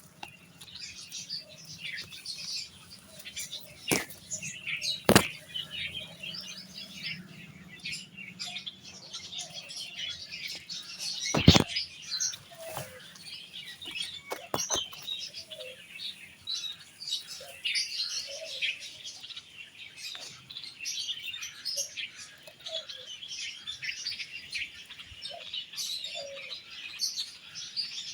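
Small birds chirping in quick, continuous short notes, with a few sharp knocks; the loudest knock comes about eleven seconds in.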